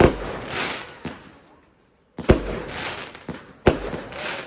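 Fireworks going off: a series of sharp bangs, each followed by a fading crackle, with a brief total break in the sound about two seconds in.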